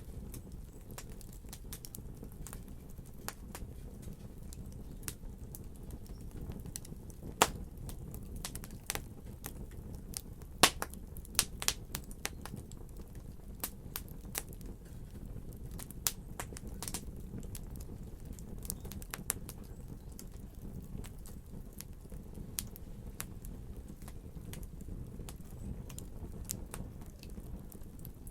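Wood fire crackling in a fireplace: a steady low rumble under frequent sharp pops and snaps, with the loudest pops about seven seconds in and again around ten to twelve seconds in.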